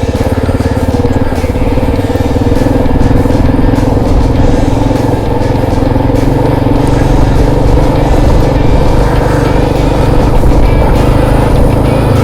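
Motorcycle engine running at a steady pace while riding a rough dirt trail.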